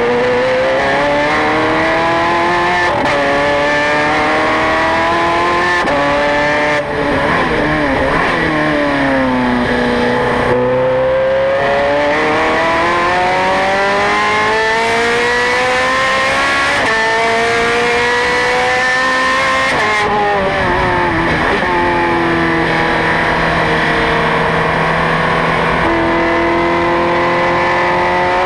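Ferrari 430 Scuderia's V8 engine at racing revs, pitch climbing hard under acceleration and dropping sharply at each upshift, then falling away as the car slows for corners before climbing again.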